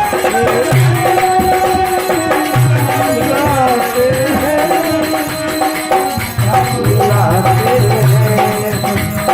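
Indian folk devotional music: dholak hand drumming in a repeated rhythm under a continuous, sliding melody line.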